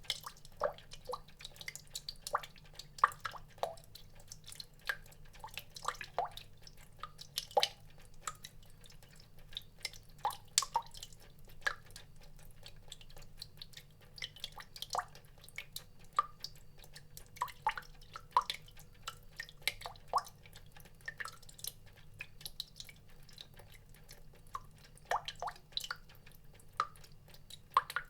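Water drops falling and plinking one at a time at an irregular pace, several a second at times, each a short pitched drip, over a faint steady low hum.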